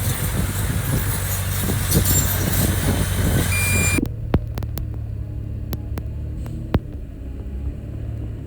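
Heavy diesel engine of earthmoving machinery running, loud and rough for the first half. Halfway through it changes abruptly to a quieter, steady low engine hum with a few sharp clicks.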